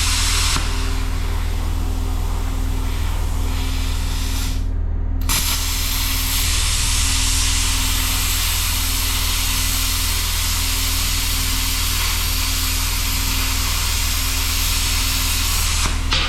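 Plasma cutter cutting steel: a steady loud hiss of the arc and air jet over a low hum. It cuts out briefly about five seconds in, then starts again.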